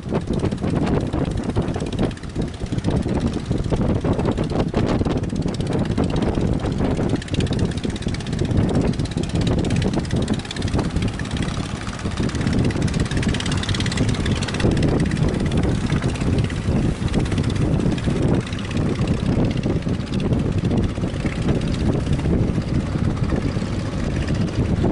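Strong wind buffeting the microphone in gusts, over the steady drone of a fishing boat's engine.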